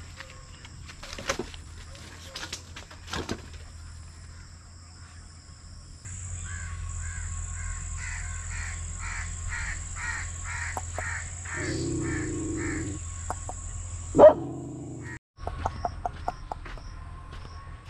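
A bird calls over and over, about two calls a second, for several seconds in the middle, over a steady high hiss. Scattered clicks are heard, and one sharp knock comes near the end.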